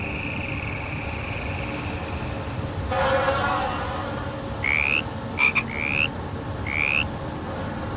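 Frogs calling at night: three short, high, rising chirps about a second apart, with a quick double click between the first two. Before them a steady high trill fades out a couple of seconds in.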